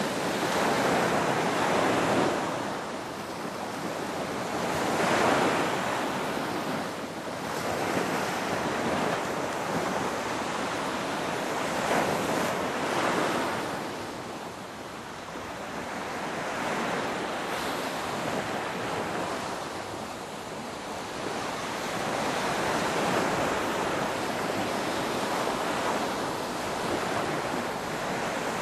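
Ocean surf: waves breaking and washing up, the rushing sound swelling and easing every few seconds.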